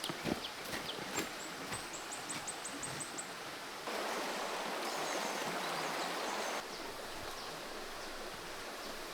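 Creek water running with a steady rush. About one second in there is a quick run of about ten high chirps. From about four seconds in, the rush grows louder for a couple of seconds, then drops back suddenly.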